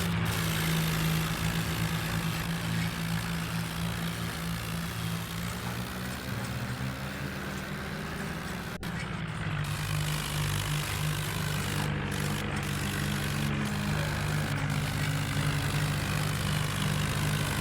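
Tractor engine running steadily. About nine seconds in there is a brief dropout, after which the hum settles at a slightly different pitch.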